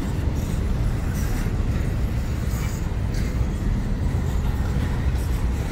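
Freight train cars rolling past: a steady low rumble of wheels on the rails, with occasional light clicks and squeals.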